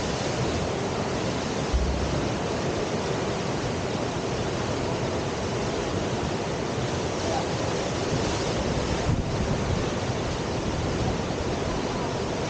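Steady rush of river water pouring through a standing river surf wave, with a brief low thump about two seconds in.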